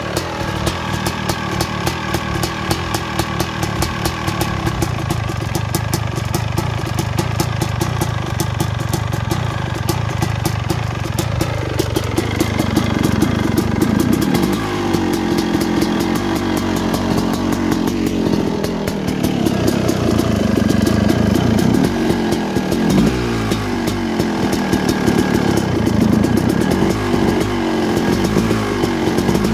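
2006 Suzuki RM250's single-cylinder two-stroke engine, breathing through an FMF Gnarly expansion pipe, running just after a cold start from 20 months' standing. It holds a steady speed at first, then from about twelve seconds in it is revved up and down again and again.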